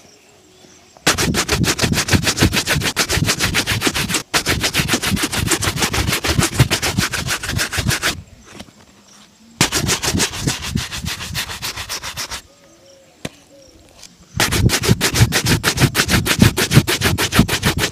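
A shoe being buffed with rapid back-and-forth rubbing strokes, several a second, in three long runs with short pauses between.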